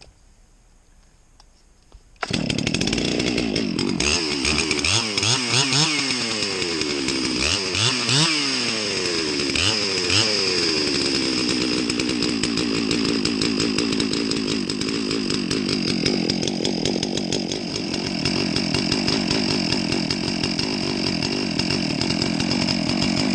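Farmertec MS 660, a Stihl MS 660 clone two-stroke chainsaw, cuts in suddenly about two seconds in. It is revved up and down several times, then held at a steady speed. The exhaust is a bit throatier than normal because the muffler's cracked internal piece has been left out.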